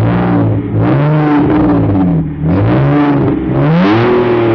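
BMW Z4 engine with its muffler and resonator deleted, revved four times in quick succession, the exhaust note rising and falling with each blip.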